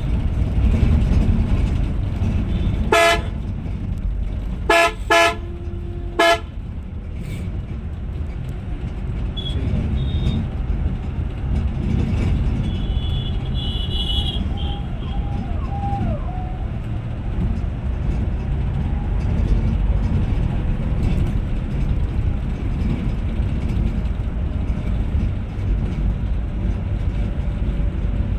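Steady engine and road drone inside a moving Scania Metrolink multi-axle coach, with a vehicle horn tooting four short times about three to six seconds in.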